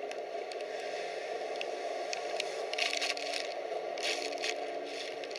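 Steady rushing noise with a faint low hum under it, and scattered scraping and rattling clicks that are thickest about three and four seconds in: a cruise ship labouring in heavy seas, with loose things rattling as it moves.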